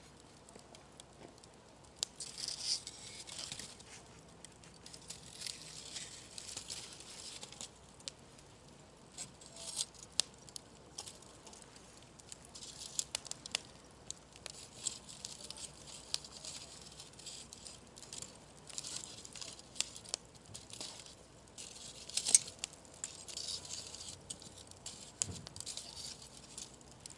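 Wood bonfire crackling and popping, with stretches of hissing; the loudest pop comes about 22 seconds in.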